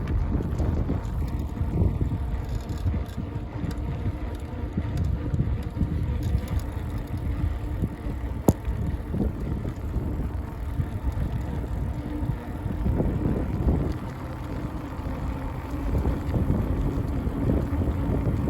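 Wind buffeting the microphone on a moving bicycle, a low rumble that rises and falls, with one sharp click about eight and a half seconds in.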